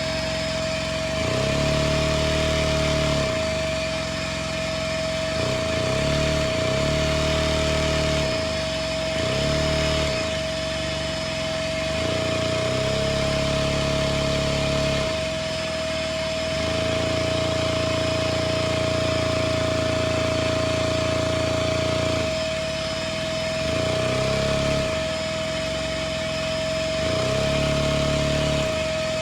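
Lego motor-driven drivetrain whirring, plastic gears and a one-cylinder Lego engine running through a 4-speed Lego transmission. A steady high whine holds throughout. The lower gear tones step up and down in pitch every few seconds, gliding between steps as the gears are shifted.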